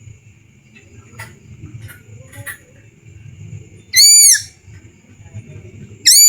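Dedes chick calling for its mother: two loud, arched whistled calls, each about half a second long and rising then falling in pitch, one about four seconds in and the second near the end, over a faint low rumble and a steady thin high hum.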